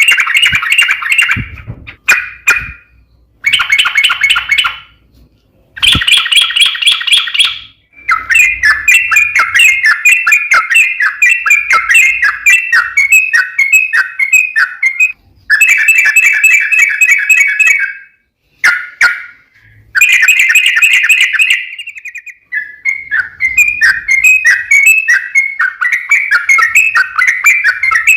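Yellow-vented bulbul (trucuk) song: long, rapid runs of chattering, bubbly notes, several seconds at a time, broken by short pauses. The song is played as a lure to set kept birds singing.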